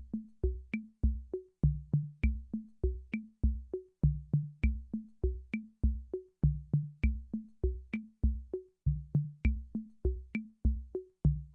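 Electronic drum-machine beat: a short, evenly repeating loop of low thumps and sharp clicks with a small pitched blip, several hits a second.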